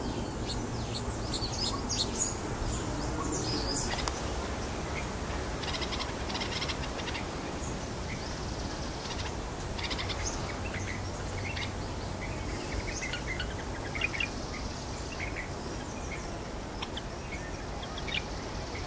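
Small birds chirping and calling, short high notes scattered throughout, with a quick run of repeated chirps around six to seven seconds in, over a steady low background hum.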